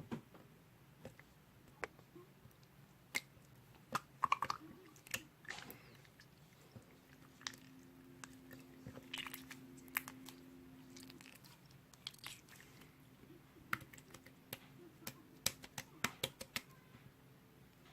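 Slime being squeezed and poked by hand, giving scattered sticky clicks and small pops at irregular intervals, some in quick clusters. A faint low hum runs underneath in the middle.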